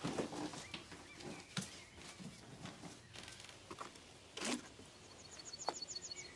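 Scattered shuffling and knocks of people getting up, then quiet outdoor ambience. Near the end a small bird sings a quick run of about ten high, rising chirps.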